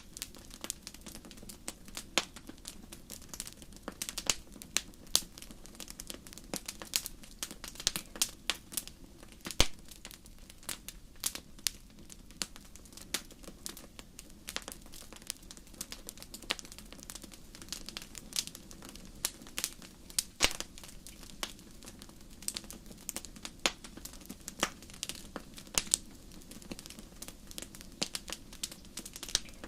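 Wood fire in a fireplace crackling, with frequent irregular sharp pops and snaps over a low, steady hiss of the flames.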